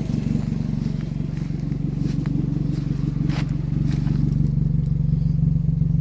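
Car engine idling steadily, a hard-used motor with over 220,000 miles on it. A few faint clicks come around the middle.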